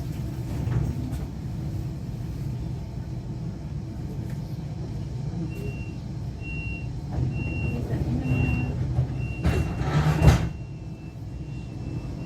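Interior of a DB Class 425 electric multiple unit: a steady low hum from the train, with a high warning beep repeating about every half second from about five seconds in, the door-closing signal. Near ten seconds two loud bursts of noise stand out, likely the sliding doors shutting.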